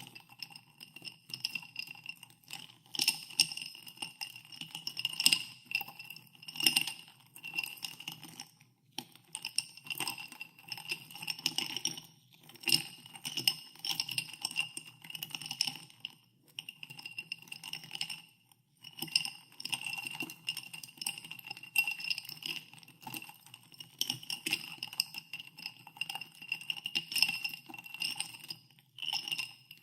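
Ice cubes clinking against a drinking glass as ice in soda water is stirred, a rapid run of knocks with the glass ringing after each, broken by a few brief pauses.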